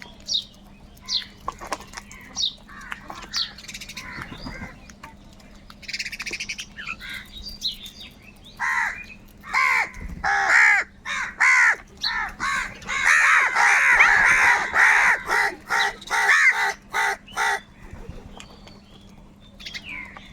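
Several crows cawing: a run of loud caws starts about eight seconds in, crowds into overlapping calls in the middle, and stops near the end. Before it, short high chirps repeat every second or so.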